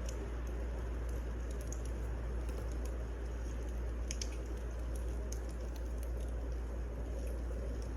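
Wood fire burning with a steady low rush and irregular small crackles and pops.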